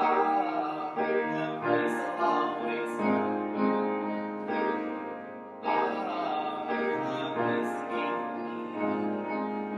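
Piano playing slow worship music, with new chords struck every second or two and left to ring.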